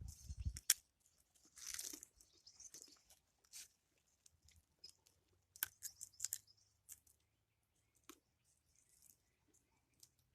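Scattered, irregular crunches and crackles of footsteps on the ground, faint, with quiet gaps between them.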